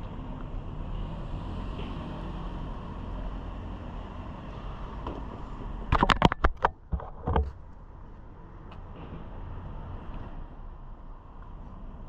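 A car engine running at low revs nearby, a steady low rumble. About six seconds in comes a quick cluster of loud, sharp knocks, with one more a little over a second later.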